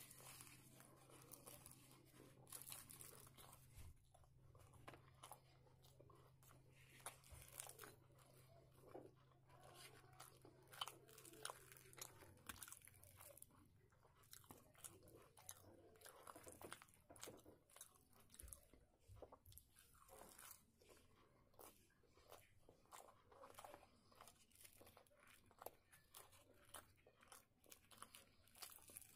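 Quiet close-up eating sounds: soft chewing and wet mouth clicks of fried puri bread and chana curry, with the bread tearing and fingers scooping curry. A low steady hum stops about twelve seconds in.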